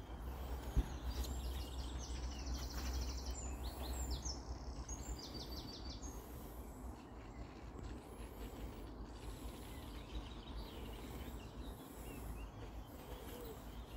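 Songbirds singing: quick trilled phrases of rapidly repeated high notes in the first few seconds, then fainter scattered calls, over a steady low rumble, with a single sharp click about a second in.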